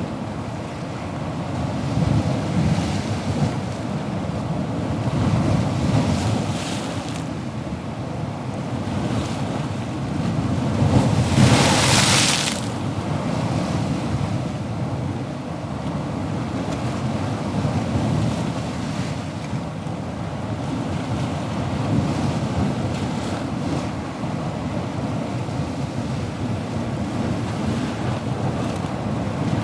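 Ocean waves breaking and washing on a shore, a continuous low rumble that swells and eases every few seconds, with one brighter hissing wash about twelve seconds in.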